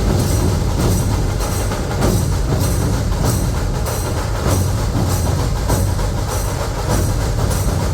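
Dhol-tasha ensemble playing: deep dhol barrel drums under a fast, steady clatter of tasha drums, in an even rhythm with accents a few times a second.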